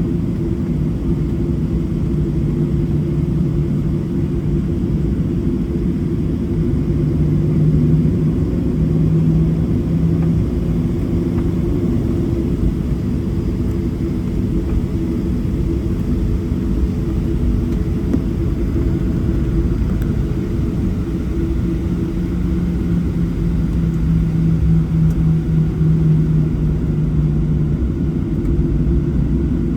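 Steady low rumble of a Boeing 737-700 airliner heard from inside the passenger cabin: engine and airframe noise. A low hum swells a little about a third of the way in and again near the end.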